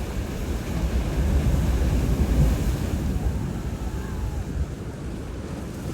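Ocean waves crashing against lava rocks: a rush of surf that swells about a second in, peaks near the middle and then fades, with wind buffeting the microphone.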